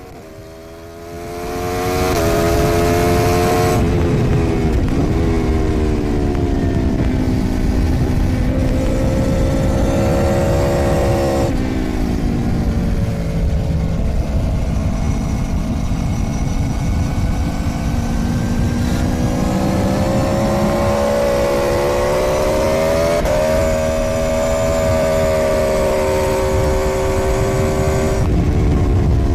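Aprilia Tuono V4's V4 engine heard onboard while riding hard on track: the pitch climbs under acceleration and drops sharply at gear changes and braking, over a steady rush of wind noise. It gets much louder about a second and a half in.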